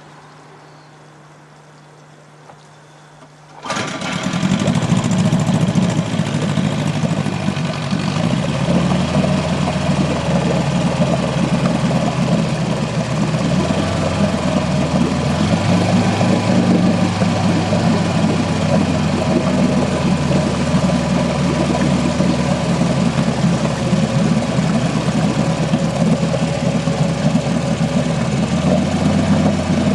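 A boat engine comes on suddenly about four seconds in and keeps running steadily, after a faint low hum.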